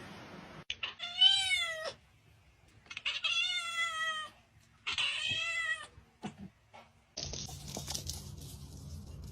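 A cat meowing three times, each meow drawn out for about a second with a pitch that rises and then falls away.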